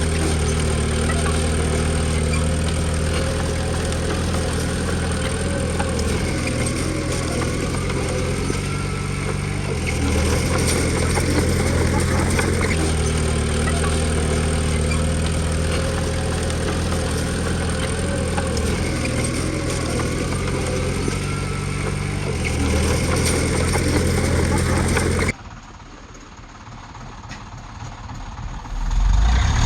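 Diesel engine of a Komatsu D20P bulldozer running steadily while working, its pitch shifting a few times with the load. About 25 seconds in the sound drops off sharply to a much quieter stretch, and a deep engine sound comes up loud just at the end.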